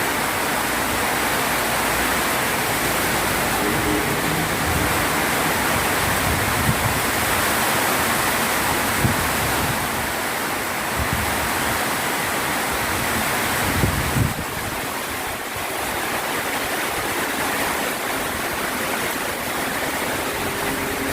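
Heavy rain pouring down in a steady, even hiss, with a few brief knocks.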